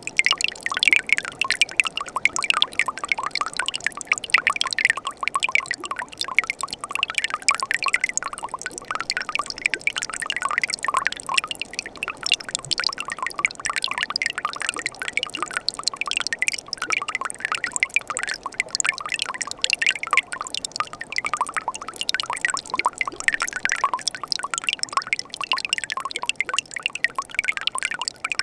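Winter mountain stream running past ice: steady trickling and splashing water with a continuous patter of small bright plinks.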